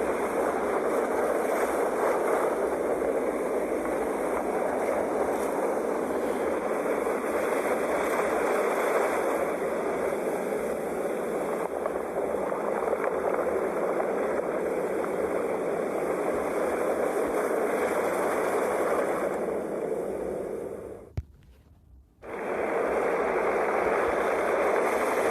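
Steady wash of sea waves with gentle slow surges. About 21 s in it cuts out for about a second with a click, then comes back.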